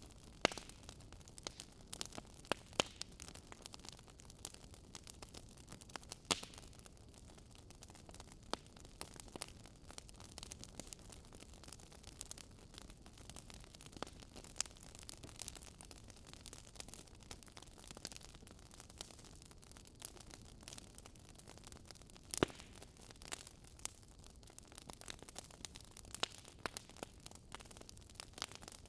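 Wood fire crackling: irregular small pops and snaps over a low hiss, with a few sharper pops standing out, the loudest about 22 seconds in.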